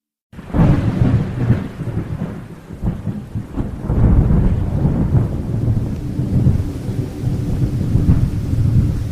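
Thunderstorm: heavy rain with deep rolling thunder, cutting in suddenly after silence. A steady low tone joins about six seconds in.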